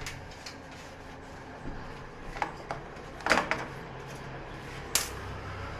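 Scattered clicks and knocks of objects being handled, the loudest cluster about three seconds in and one sharp click near the end, over a steady low hum.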